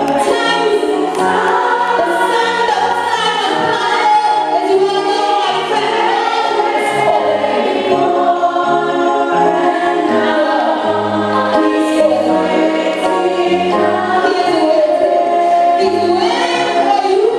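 A choir or congregation singing a gospel hymn with instrumental accompaniment, steady throughout.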